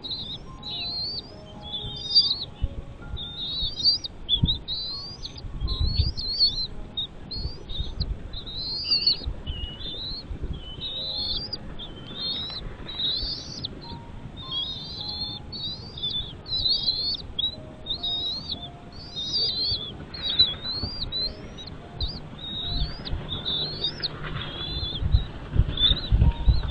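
Birds chirping in a rapid, unbroken run of short, high, rising and falling notes, with faint background music and occasional low rumbles.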